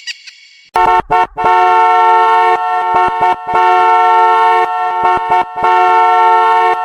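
Vehicle horn honking on a steady two-note chord: two short toots, then long blasts broken by brief gaps.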